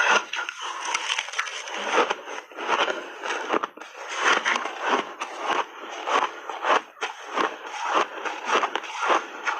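Shaved ice coated in matcha powder being bitten and chewed close to the microphone: a dense, continuous run of crisp crunching and cracking, several crunches a second.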